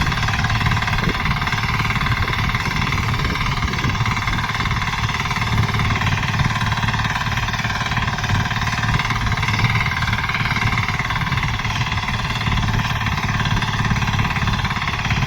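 10 HP power tiller's engine running steadily with a fast, even chugging, pulling a wakhar (blade harrow) attachment.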